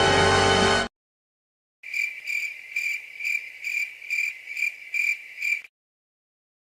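Crickets chirping as a comedy sound effect: a steady high trill pulsing about twice a second for roughly four seconds, the stock cue for awkward silence. A music clip cuts off in the first second, just before it.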